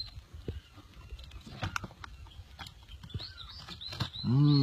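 Birds chirping in short, repeated high calls with scattered light clicks and knocks; a man's voice starts loudly near the end.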